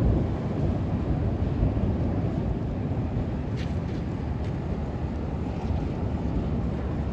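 Storm wind gusting and buffeting the microphone, a steady low rumbling noise.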